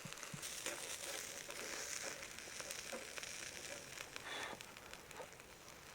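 Meat sizzling on a shichirin charcoal grill: a steady hiss with scattered small crackling pops.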